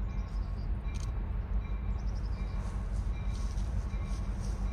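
Steady low rumble of a diesel freight train, with faint high ringing tones repeating about twice a second over it.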